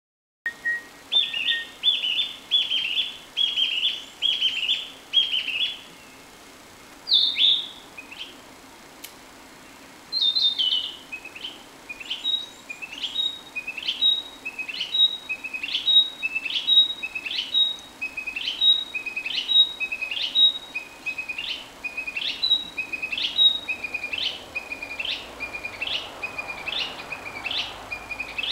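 Narcissus flycatcher singing: a string of short whistled notes, repeated over and over. After a pause of a couple of seconds partway through, it sings a faster, steady run of the same kind of notes.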